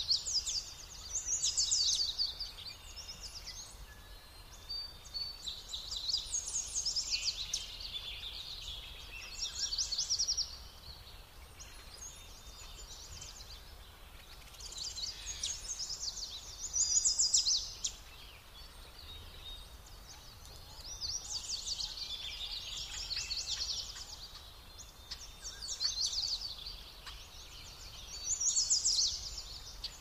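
A songbird singing short, fast, high trilled phrases, one every two to three seconds, over a faint steady outdoor background.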